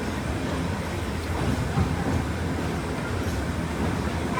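Passenger train moving along the track after departure, a steady low rumble of wheels and coach, heard from on board.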